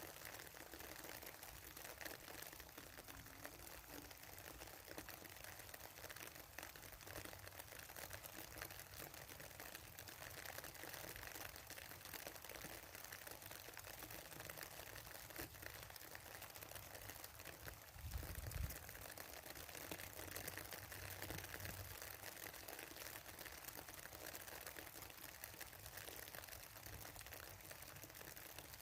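Rain falling on a pond, a steady soft patter of many fine drop ticks on the water surface. A brief low rumble comes about two-thirds of the way through.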